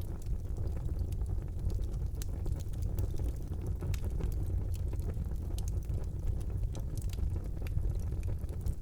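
Fire burning in a fireplace: a steady low rumble of the flames under frequent, irregular sharp crackles and pops.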